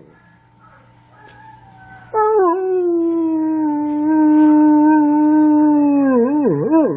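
A large dog howling: about two seconds in, one long howl starts, drops a little in pitch and holds steady for about four seconds, then wavers up and down near the end.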